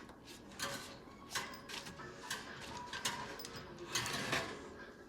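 Irregular light clicks and knocks of a birdcage being handled during cleaning, about one or two a second, the loudest a little after four seconds in.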